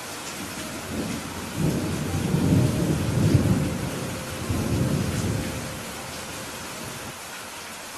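Steady rain with a rolling rumble of thunder that builds about a second in, swells over several seconds and fades out near the end.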